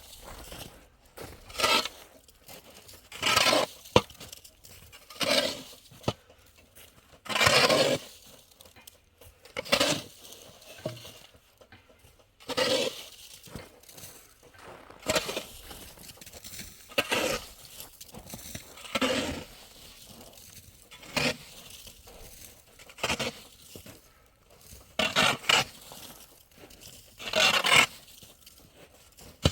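Shovel working: repeated scraping, crunching strokes, about one every two seconds.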